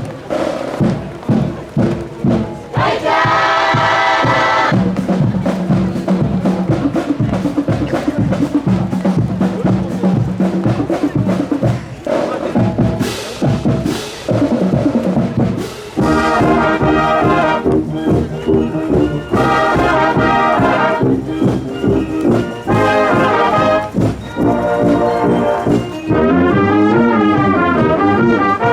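School marching band playing on parade: brass (trumpets, trombones) over a steady marching drum beat, with the full brass chords swelling from about halfway through.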